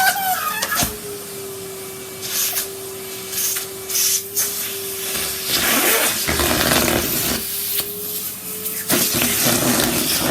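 Henry cylinder vacuum cleaner running with a steady motor whine, its hose sucking at a rubber glove; louder rushing, rustling suction noise about six seconds in and again near the end, with a few short clicks earlier.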